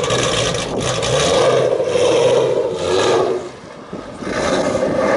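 Ford Mustang 5.0's V8 with a custom exhaust being revved, crazy loud. The revs hold high for about three seconds, fall away briefly about three and a half seconds in, then climb again.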